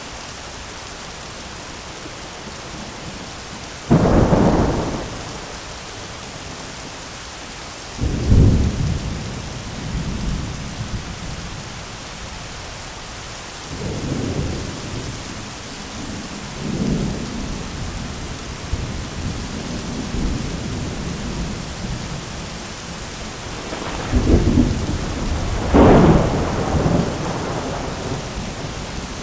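Thunderstorm: steady heavy rain hissing throughout, with thunder cracking and rumbling several times, the loudest claps about four and eight seconds in and a pair close together near the end.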